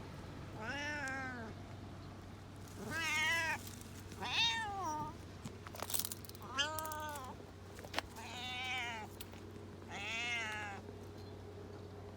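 Domestic cat meowing six times in a row, each meow about a second long and arching up then down in pitch. Two sharp clicks fall between the middle meows, over a low steady hum.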